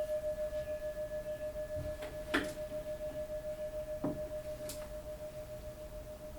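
A singing bowl rings on a single steady tone with fainter overtones, pulsing in a quick waver as it slowly fades. A couple of light taps or clicks come about two and four seconds in.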